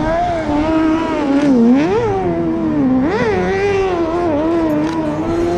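Autocross car engine revving out on the dirt track, its pitch rising and falling sharply twice, about two and three seconds in, then running at a fairly steady high pitch.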